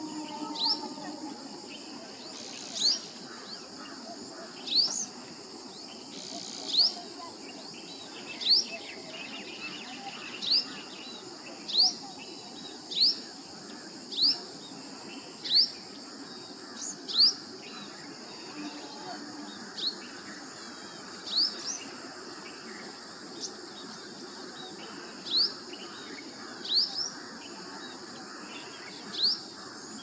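A bird repeats a short, sharply rising call note about every one and a half to two seconds, over a steady high drone of insects.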